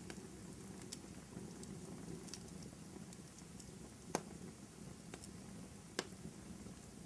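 Wood fire burning in a fireplace: a steady low rustle of flames with small crackles throughout and two sharper pops, about four and six seconds in.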